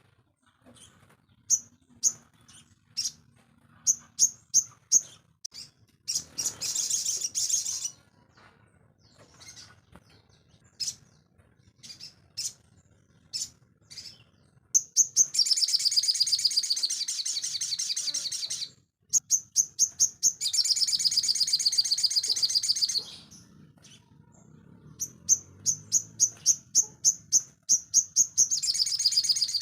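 Sogon bird singing vigorously: sharp high chirps, singly and in quick runs, alternating with long, very fast trills lasting a few seconds each.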